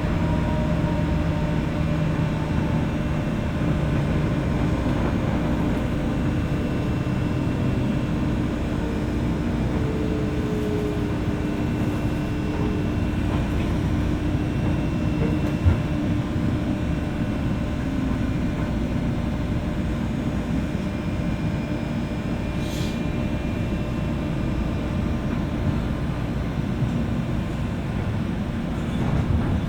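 Interior sound of a JR West 201-series electric train motor car, recorded above its armature chopper: steady rumbling running noise with faint electric whines that fall in pitch as the train slows. There is a single sharp knock about halfway through and a brief hiss a little later.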